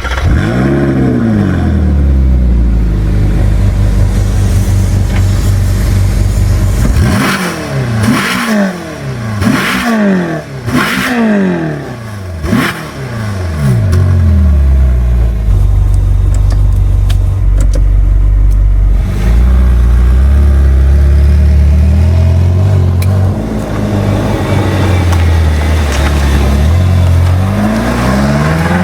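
Ferrari California's 4.3-litre V8 on its stock exhaust, revved stationary. The note drops in the first second or so to a steady run, then comes a quick series of about five sharp throttle blips, then steady running again, and one more rev climbs near the end.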